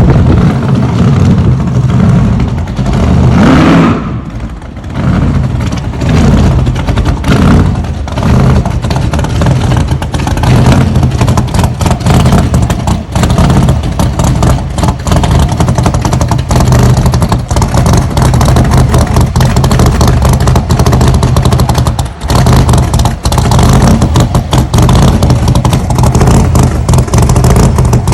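A vehicle engine running loud and close with its exhaust, a steady low note with rattling over it, dipping briefly about four seconds in.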